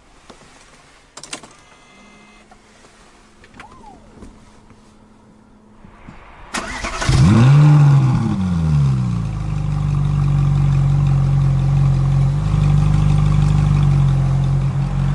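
An engine starting about six and a half seconds in. Its pitch rises and falls as it catches, then it settles into a steady idle.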